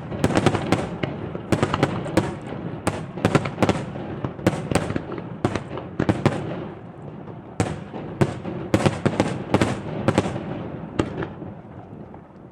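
Aerial fireworks bursting in a rapid barrage of sharp bangs over a continuous rumble, thinning out and dying away in the last second or so.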